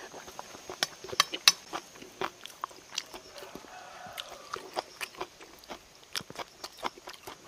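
A person chewing and crunching food close to the microphone, with many sharp, irregular clicks and taps throughout.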